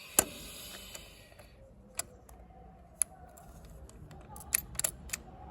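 Scattered sharp metallic clicks and taps, about six over a few seconds, with a brief hiss near the start: small metal parts and tools being handled at a workbench.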